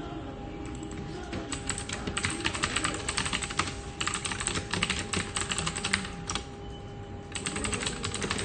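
Rapid typing on a computer keyboard: a dense clatter of keystrokes starting about a second and a half in, stopping for about a second near the end, then starting again. A faint steady hum runs underneath.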